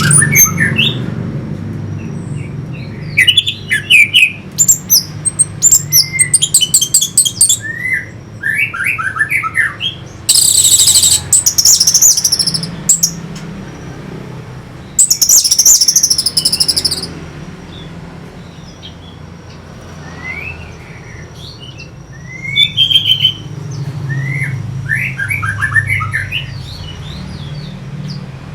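Orange-headed thrush singing: a varied run of short whistled phrases and quick chattering trills, with two louder, harsher high bursts about 10 and 15 seconds in, over a steady low hum.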